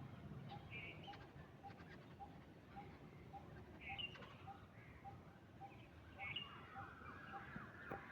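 Faint birdsong: one bird repeats a short low note about twice a second, steady throughout. Over it come a few short higher calls and, near the end, a quick chattering run of notes.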